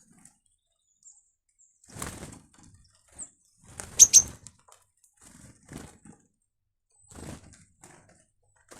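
Small birds' wings flapping in short flurries as they fly in and out, with brief high chirps. The loudest sound is a sharp double chirp about four seconds in.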